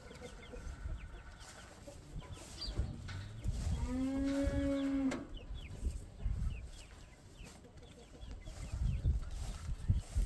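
Chickens clucking and chirping. About four seconds in comes one drawn-out farm-animal call lasting a little over a second. Low rumbling thumps run underneath.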